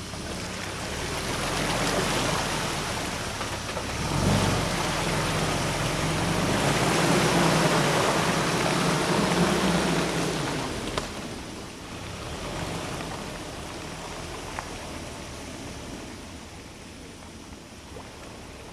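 UAZ Patriot SUV crawling off-road at low revs, driven without throttle: a low engine hum under a broad rushing noise that swells through the middle and then fades, with a knock about four seconds in.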